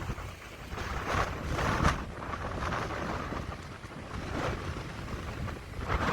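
Strong wind buffeting the microphone in gusts over the rush of storm surf on the North Sea, with a steady low rumble underneath.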